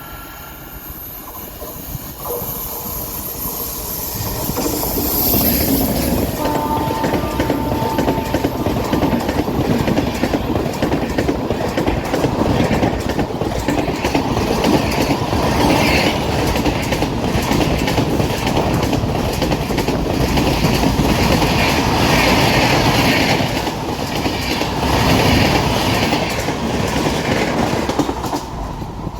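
Train passing close by, its wheels clattering in a steady rhythm over the rail joints. The noise builds over the first few seconds as it approaches, stays loud, and then drops away near the end.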